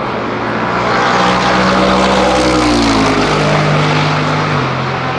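Lexus RC F LMGT3 race car's naturally aspirated 5.0-litre V8 running at a steady, held pitch, the note shifting about three seconds in and again near the end.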